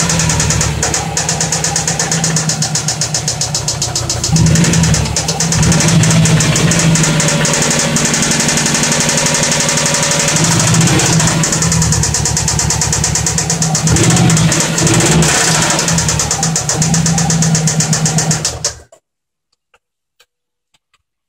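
2004 Subaru Forester XT's turbocharged 2.5-litre flat-four engine running with a rapid, rhythmic knocking, which the owner thinks is an engine knock though no check-engine light is on. It gets louder a couple of times and stops abruptly near the end.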